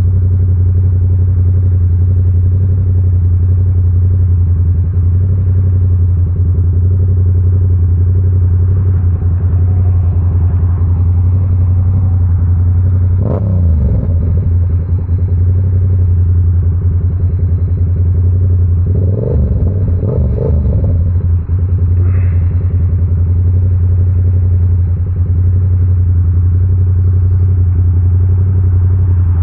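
Yamaha R7's 689 cc parallel-twin engine running through an SC Project CR-T exhaust at steady, held revs while riding. The engine note briefly wavers and shifts in pitch twice, about a third of the way in and again about two-thirds in.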